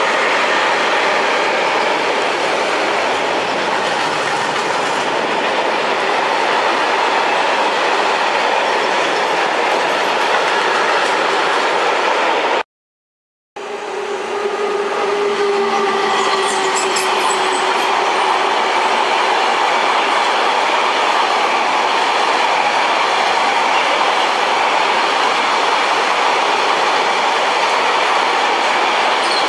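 Two electric-locomotive-hauled trains passing at speed, wheels rattling over the rails, split by an edit with a second of silence about 13 s in. In the second pass a short high wheel squeal sounds about 16 s in.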